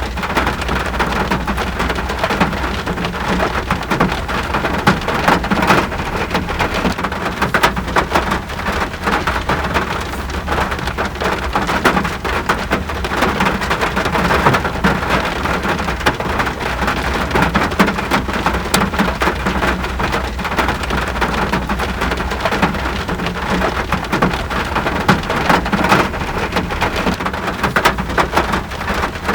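Steady rain falling, a dense patter of drops with a constant low rumble underneath.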